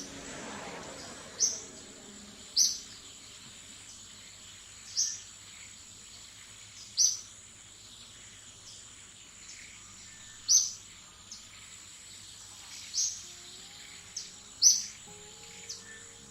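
A bird giving short, high chirps, one every one to two and a half seconds, over a steady high-pitched insect-like hiss.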